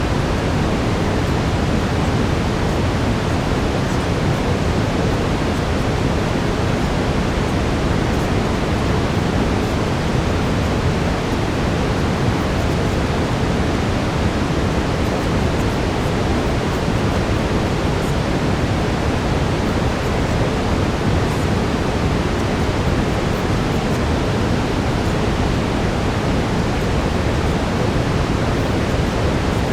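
Steady brown noise, an even rushing hiss weighted toward the low end, with no change for the whole stretch.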